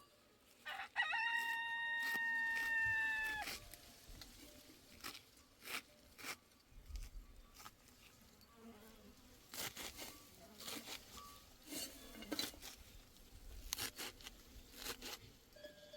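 A rooster crowing once: a single long, steady call of nearly three seconds that sags slightly at the end. Scattered light clicks and knocks follow.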